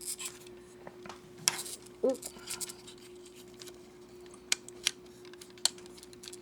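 Snap-fit plastic model-kit parts clicking as they are handled and pressed onto their pegs and tabs: a handful of sharp, separate clicks spread out, over a faint steady hum.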